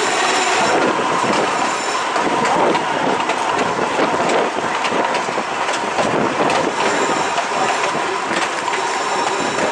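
Cumbres & Toltec narrow-gauge passenger train rolling along, heard from aboard: a steady rumble and rattle of wheels on rail, with a thin high wheel squeal that comes and goes and is strongest near the end.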